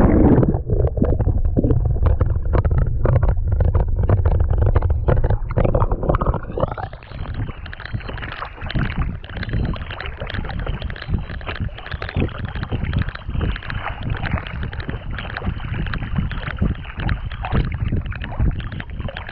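Kayak being paddled on a lake: water splashing and sloshing around the paddle and hull. A heavy low rumble runs through the first six or seven seconds, then eases.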